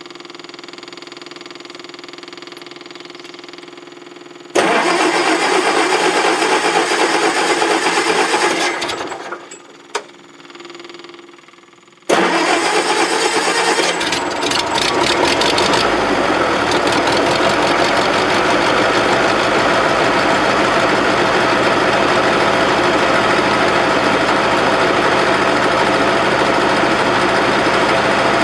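Bobcat 610 skid steer's Wisconsin gasoline engine starting about four seconds in, running briefly, then dying away. It starts again about twelve seconds in and keeps running steadily.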